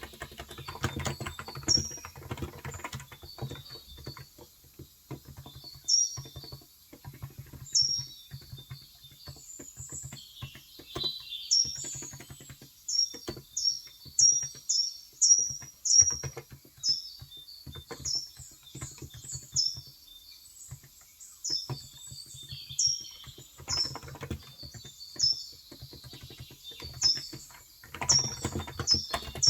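A bird chirping over and over in short, sharply falling notes, a few a second at its busiest. These chirps are the loudest sound. Under them, typing on a Cox Endeavor tenkeyless electro-capacitive (35 g) keyboard comes and goes in quick runs of soft key strokes.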